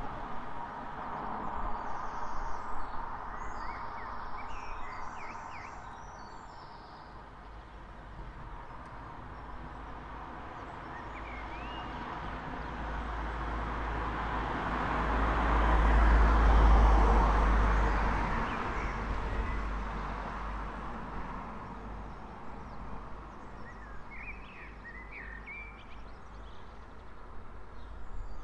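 A single road vehicle passing along the street, its tyre and engine noise building slowly to a peak about halfway through and then fading away. Birds chirp briefly near the start and again near the end.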